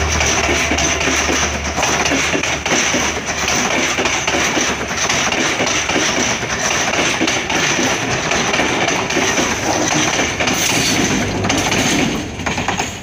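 Sri Lanka Railways S13 diesel multiple unit passing close by, its coaches' wheels rumbling and clicking on the rails, with a steady high whine running through. The noise falls away sharply near the end as the last coach goes past.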